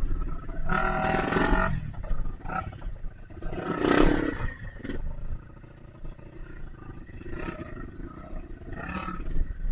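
Dirt bike engine revving in several surges over a low running rumble, with the loudest surge about four seconds in and shorter ones about a second in and near the end.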